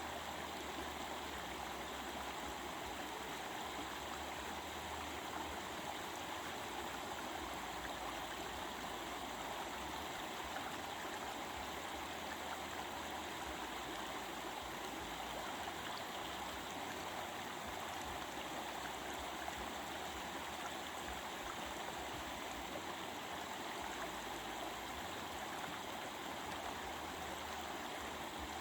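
Stream of water babbling steadily, with an even, unbroken rush.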